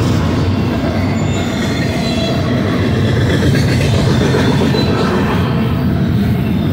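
Steel wheels of double-stack intermodal well cars rolling past on the rails: a loud, steady rumble and rattle, with faint high wheel squeals now and then.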